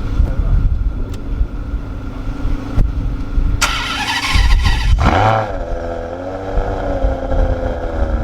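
A car engine is started: a short burst of noise, then it catches about five seconds in with a quick rise and fall in revs and settles into a steady idle.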